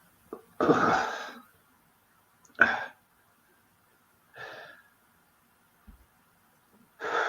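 A man coughing and clearing his throat in four separate bursts, the first the loudest, from the burn of a Carolina Reaper chilli chocolate.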